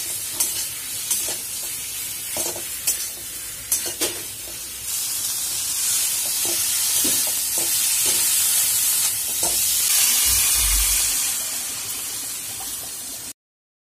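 Cauliflower florets and potato pieces sizzling in hot oil in a steel wok, with a steel spatula scraping and tapping against the pan as they are stirred over the first few seconds. The sizzling then grows louder and steadier before cutting off suddenly near the end.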